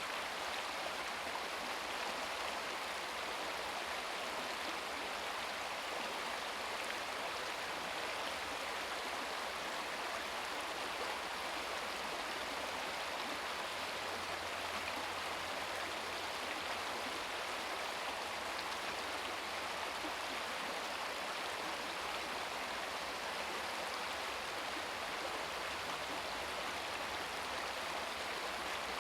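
Shallow brook babbling over stones: a steady, even rush of flowing water.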